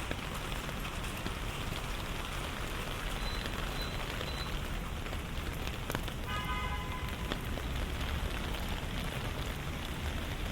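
Steady rain falling on wet city surfaces, an even hiss over a low rumble, with a brief pitched tone about six seconds in.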